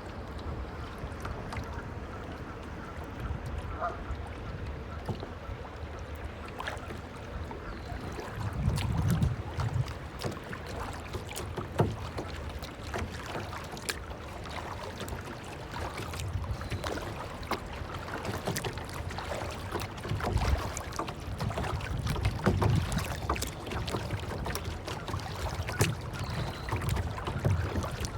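Water lapping and splashing in small irregular slaps, over a low rumble that swells and fades every few seconds, like wind on the microphone.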